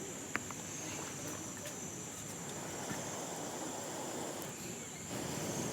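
Insects, crickets by their steady high trill, chirping without a break, with a faint click about half a second in.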